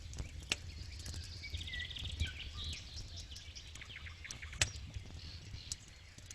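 Wood campfire crackling with irregular sharp pops, the loudest snap about four and a half seconds in, over a steady low rumble of the fire. Birds chirp briefly in the background about two seconds in.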